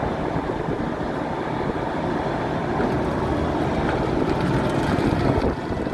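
Bulldozer engine running steadily under load, a continuous low mechanical rumble that grows slightly louder toward the end.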